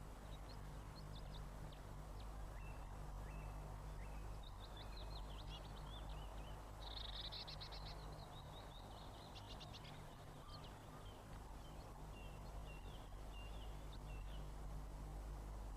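Small garden songbirds chirping and calling in short notes, with a fast trill about seven seconds in, over a steady low hum.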